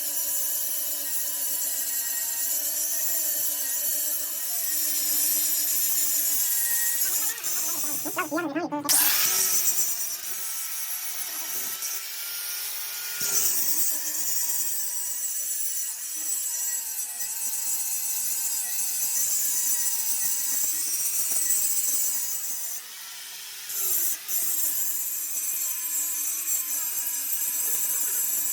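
A power tool running in a workshop with a steady high hiss, its pitch wavering slightly as the load changes, with a brief louder burst about nine seconds in.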